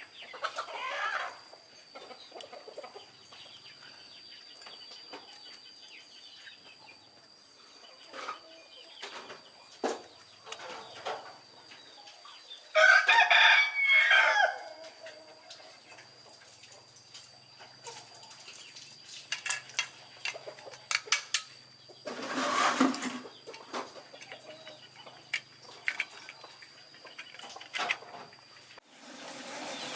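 Rooster crowing once, a loud call of about two seconds near the middle, with chickens clucking and scattered small knocks around it.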